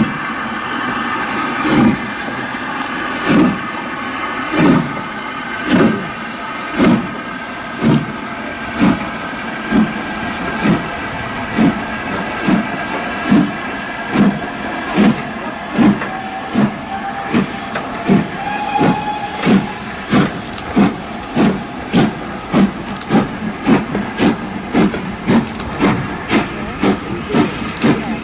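Steam locomotive pulling away, its exhaust chuffs speeding up steadily from about one every second and a half to about two a second over a continuous hiss of steam.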